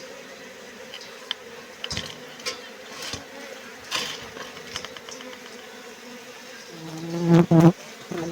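Honeybees buzzing steadily, with a few light clicks. Near the end a much louder buzz swells and cuts off as a bee flies close by, then comes back briefly.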